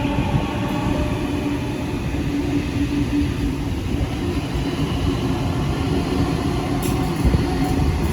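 Electric passenger train running with a steady rumble and a constant motor hum, with a few brief high wheel squeaks near the end.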